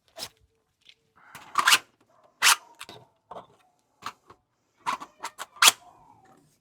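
A 3D-printed gas-powered DVL-10 airsoft bolt-action rifle being fired and its bolt worked: a string of sharp clicks and pops, the loudest about two seconds in, again a little later, and again near the end, with quicker mechanical clicks between. It is now firing with its worn firing pin seen to.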